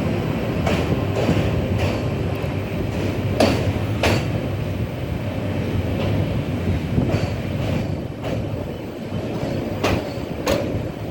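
Indian Railways passenger train running on the rails: a steady rumble with sharp wheel clacks over rail joints, several coming in pairs.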